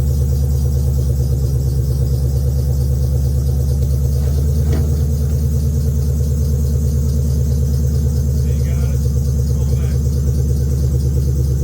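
2014 Shelby GT350's V8 idling steadily, shortly after a cold start following weeks of storage.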